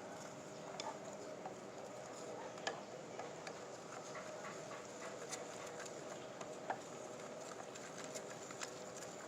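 Irregular light clicks and taps, two of them sharper than the rest, over a steady low hum.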